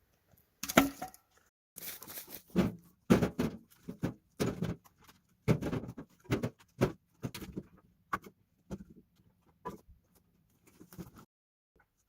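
Split firewood logs being dropped and stacked: a quick irregular run of wooden knocks and clatters, growing lighter and sparser toward the end.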